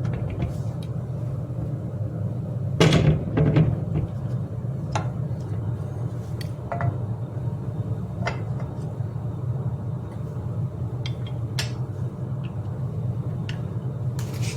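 Metal clinks and taps of tools and parts as a bicycle crank arm and its crank bolt are fitted, with a louder cluster of knocks about three seconds in, over a steady low hum.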